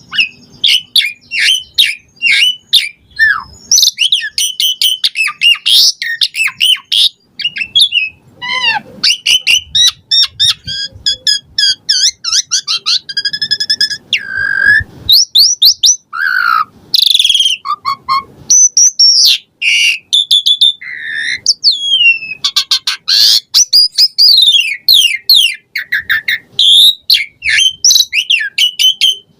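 Asian pied starling (jalak suren) singing a long, unbroken, varied song: rapid chattering notes, clear whistles, trills and rising and falling slides, packed with borrowed phrases.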